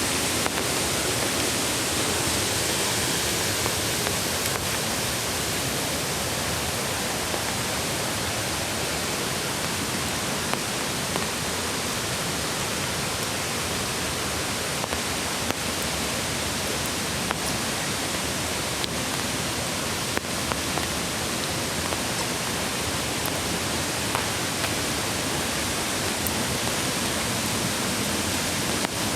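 Mountain stream rushing steadily over rocks, an even hiss of water with a few faint scattered ticks on top.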